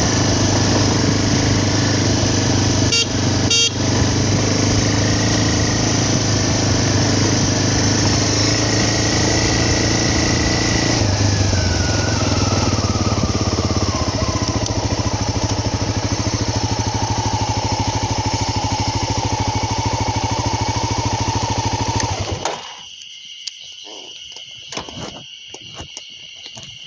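A vehicle's engine running on the move with wind noise, its pitch falling as it slows after about 11 seconds, then stopping abruptly about 22 seconds in. After that, a steady high insect drone.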